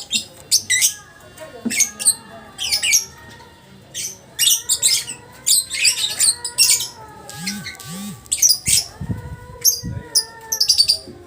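Lovebird in a long 'ngekek' chattering run: a quick string of short, shrill, harsh calls, several a second, with only brief pauses.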